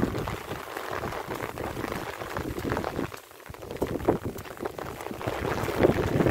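Light rain falling: a dense crackle of many small drops, briefly quieter about three seconds in.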